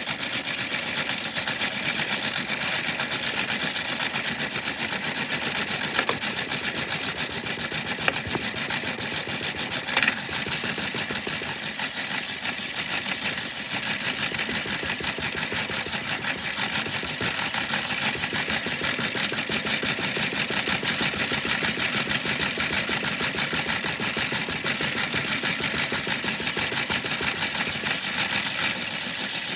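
Washing machine running with a large rock inside: a steady, loud mechanical rattle, with a few sharper knocks in the first third.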